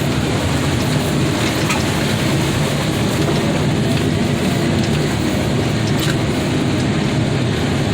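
Vehicle engine running at a steady pitch while being driven, with a few faint rattles.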